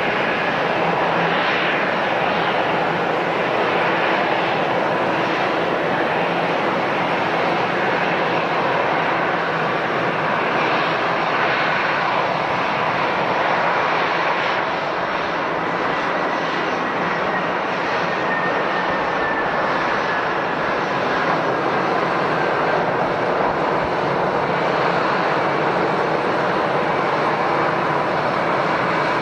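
Airliner engines running loud and steady, with a faint whine that slowly falls in pitch partway through.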